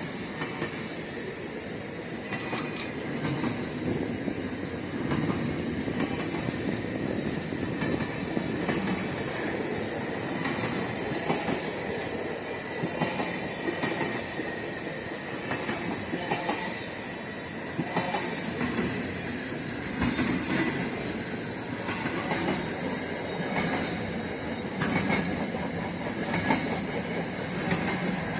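Container freight train rolling past: a steady rumble of wagon wheels on the track, with irregular clacks and a faint high ringing tone running through it.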